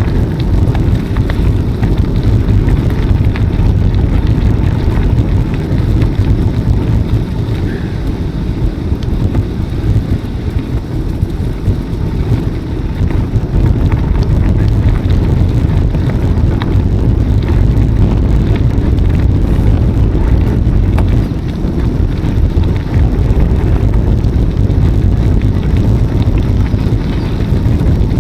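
Wind buffeting the microphone of a moving bicycle, a loud, steady low rumble that swells and dips, with the bicycle's tyres running on the path beneath it.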